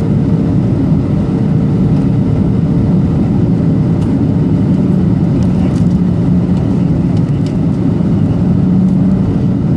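Steady low rumble of a Boeing 737-800's CFM56-7B engines and airflow heard inside the passenger cabin, with a faint steady hum over it.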